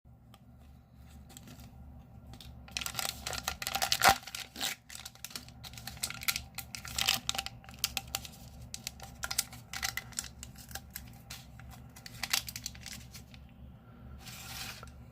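A cat eating a cat-stick treat from its crinkly plastic wrapper: irregular crackling and clicking, loudest about four seconds in.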